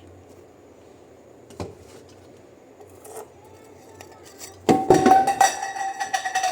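Small hard objects knocked and clinked together, like tableware: a faint knock or two, then a quick run of loud clattering knocks about three-quarters through, leaving a ringing tone that holds to the end.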